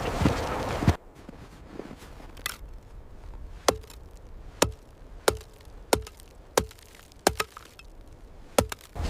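Axe chopping wood: about ten sharp strikes, most under a second apart, with two quick double blows near the end and a short ring after each. A loud rush of wind or movement cuts off suddenly about a second in, before the strikes.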